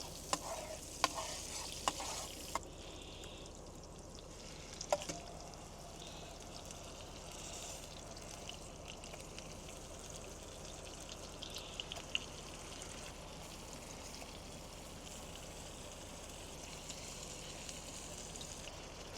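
Food frying in a hot pot, a steady sizzle, with a few sharp clicks and knocks of utensils in the first five seconds.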